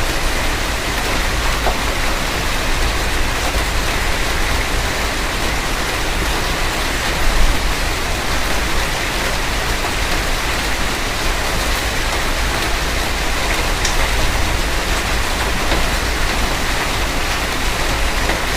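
Heavy rain pelting a moving car, a dense steady hiss over a constant low road rumble, with one brief louder swell about seven seconds in.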